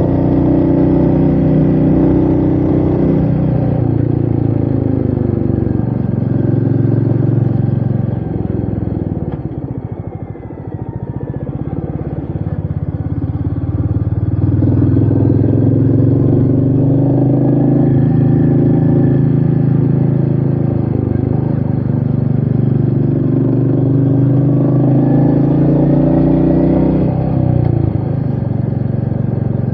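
Royal Enfield Meteor 350's single-cylinder engine running on the move, with wind noise. About eight seconds in the engine note falls and quietens as the throttle is closed, then climbs again from about twelve seconds as the bike pulls away, with another brief change in pitch near the end.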